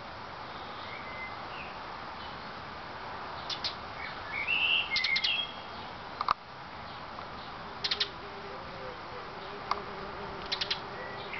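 Small birds chirping, with a burst of chirps about halfway through, over a steady background hiss. Several short clusters of sharp clicks are scattered through it.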